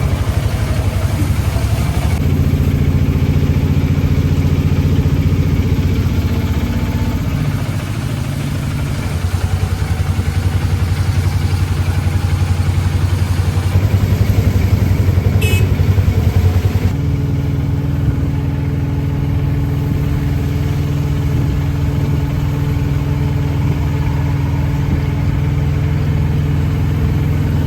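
Vehicle engine running steadily. It eases off briefly about eight seconds in, and its note changes to a steadier drone about seventeen seconds in. A brief high-pitched squeak comes about halfway through.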